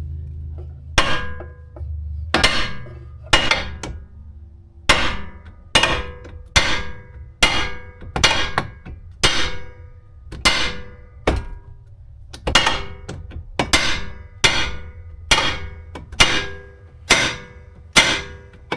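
Hammer blows on a Mazda 6's front lower control arm, about one sharp, ringing metallic strike a second, over and over. They are knocking the ball joint stud out of the steering knuckle (spindle).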